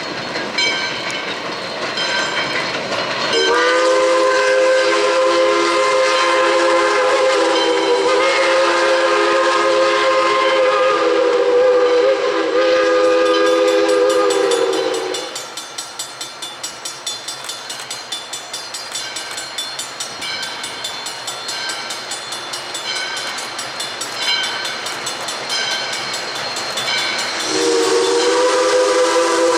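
A steam locomotive's chime whistle sounds a long blast of about twelve seconds, several notes held together, starting a few seconds in. Then the train runs with a regular rhythmic beat, and the whistle starts again near the end.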